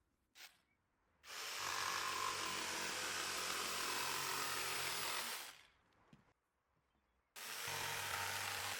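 Electric jigsaw cutting through wood in two runs: one cut of about four seconds, a pause, then a second cut starting about six and a half seconds in. A short click comes just before the first cut.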